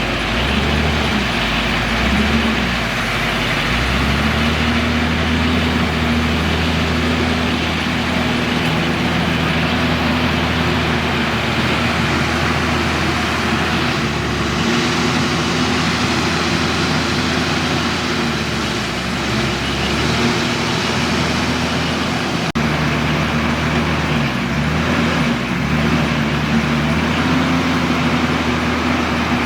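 Heavy diesel engine of a loader or dump truck running under load, its pitch stepping up and down as the machine works.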